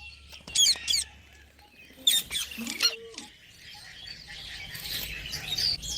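A baby green parrot calling in short, shrill, squeaky chirps: a quick cluster about half a second in, another about two seconds in, then fainter squeaks toward the end.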